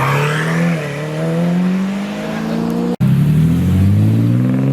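Car engine accelerating hard, its pitch climbing steadily. It dips about a second in, as at a gear change, and climbs again. Near three seconds in the sound cuts out for an instant, then another rising pull follows.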